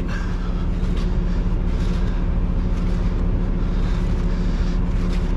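Peterbilt 389 semi truck's diesel engine running steadily with the PTO engaged to drive the trailer's pump, a low, even drone.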